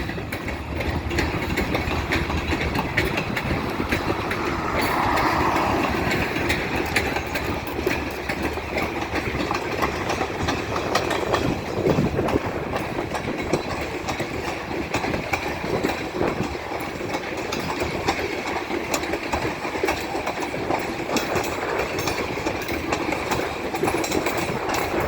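Loaded freight cars of a corn train rolling past at steady speed, steel wheels clicking rhythmically over the rail joints.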